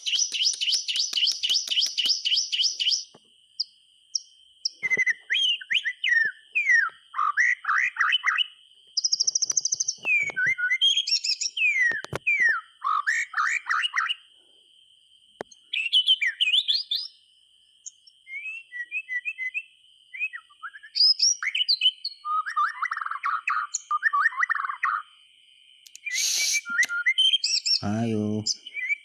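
White-rumped shama (murai batu) singing in a long run of varied phrases with short pauses between them. It opens with a fast trill of rapidly repeated notes, then goes on to quick falling whistles and chattering runs.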